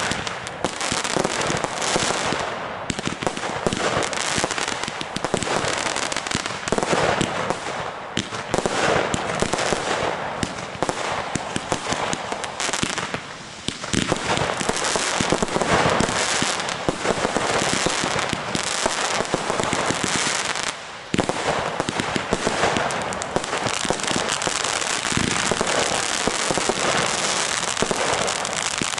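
Many fireworks and firecrackers going off at once in a dense, continuous crackle of bangs and pops, with a brief lull about three quarters of the way through.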